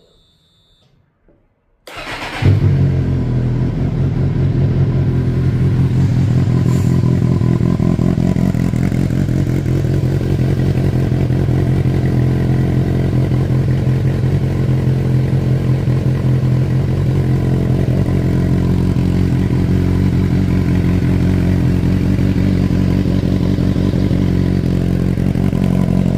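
Suzuki GSR 600 inline-four with a GPR aftermarket sport exhaust starting up about two seconds in, then idling steadily and loudly.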